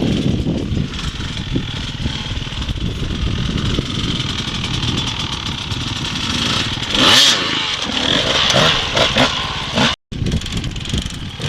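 Dirt bike engine running and revving, with a louder burst of revs about seven seconds in. The sound cuts out for an instant near the end.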